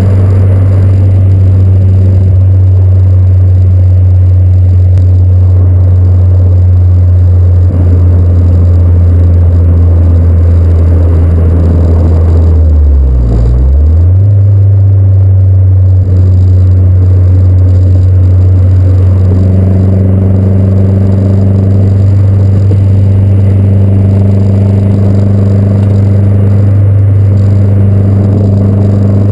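Exhaust of a 2011 Mazdaspeed3's turbocharged 2.3-litre four-cylinder, through a catted downpipe, stock resonated midpipe and aftermarket axle-back, running with a loud, steady low drone. About 13 seconds in the pitch briefly drops and comes back up.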